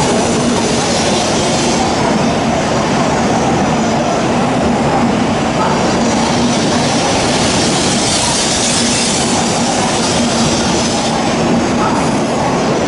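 Sanyo Shinkansen Nozomi train running: loud, even train noise with a steady low hum, without a clear rise or fall.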